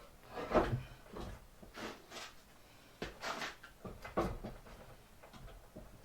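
Heavy Sealy band saw being manhandled and shifted on its stand: a series of about six knocks and scrapes, the loudest a clunk about half a second in.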